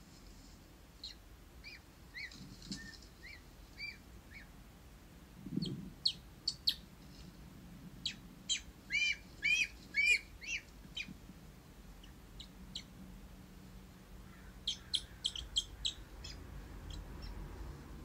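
Small birds chirping in scattered runs of short, quick high notes, with a low thump about five and a half seconds in.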